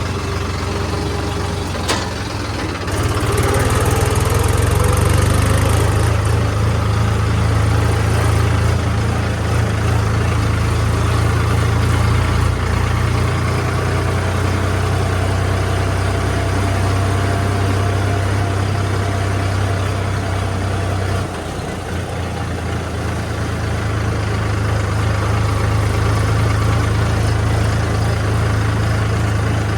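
Heavy diesel engine running steadily. It gets louder a few seconds in, eases off for a moment about two-thirds of the way through, then builds again.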